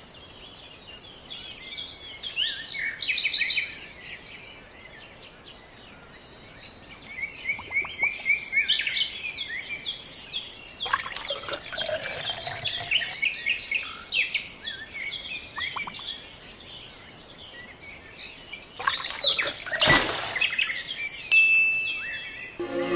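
Birds chirping and calling, in short repeated high notes throughout, with brief louder rushing noises about 11 and 20 seconds in.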